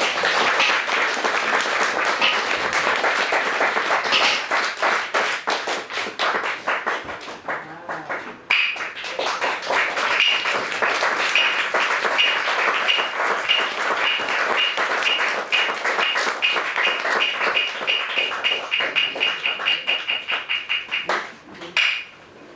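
Audience applauding, then kabuki hyoshigi wooden clappers struck in a long series that speeds up steadily (the kizami that signals the curtain closing at the end of the scene), with applause going on underneath; the clapper strikes stop about a second before the end.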